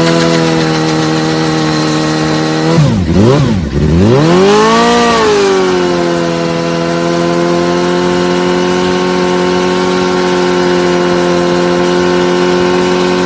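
Motorcycle engine held at high revs. About three seconds in the revs drop sharply twice, then climb again and settle into a steady high-revving run.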